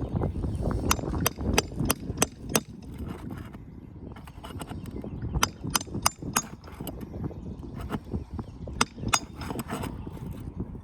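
Metal hand tool tapping and prying at roofing nails in asphalt shingles: sharp clicks in quick clusters over a low rumble.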